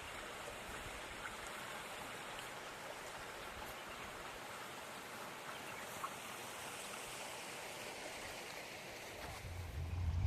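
Steady rush of a stream's running water. A low rumble builds near the end.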